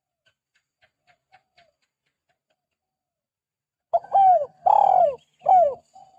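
Spotted dove (tekukur) cooing: a few faint soft notes, then about four seconds in a loud phrase of three falling coos, the middle one the longest.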